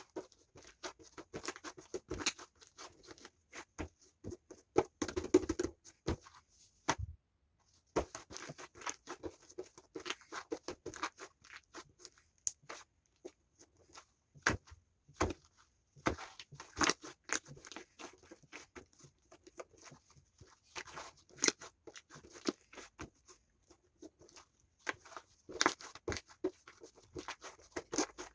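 Homemade fluffy slime being squished and pressed by hand, giving irregular sticky crackles and little popping clicks, with a short pause about seven seconds in.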